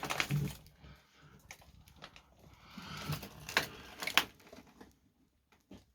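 Light clicks, knocks and rustling of objects being handled and shifted, a few separate knocks standing out, then it goes quiet near the end.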